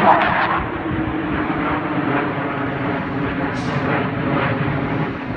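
Fighter jets passing overhead, their jet noise mixed with a garbage truck's engine running, strongest in the first moment and then easing to a steady level.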